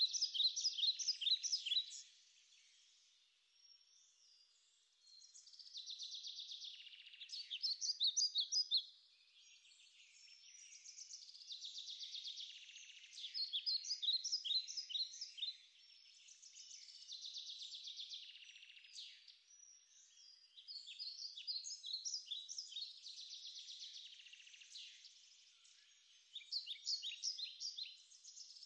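Small songbirds singing: phrases of rapid high notes about two seconds long, repeated every few seconds, with quieter song from another bird in between.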